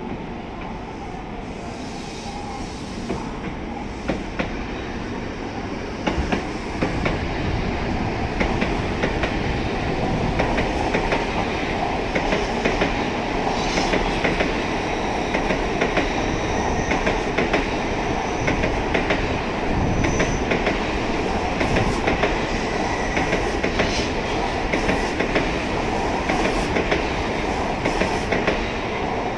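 Tokaido Shinkansen N700-series trainset pulling slowly out of the platform and rolling past close by. A steady rumble of wheels and running gear grows louder about six seconds in, with a running series of clicks as the wheels cross rail joints and points and a few brief high wheel squeals.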